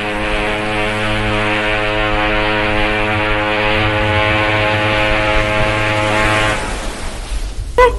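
A steady low drone with many overtones, held for about six and a half seconds and then cutting off.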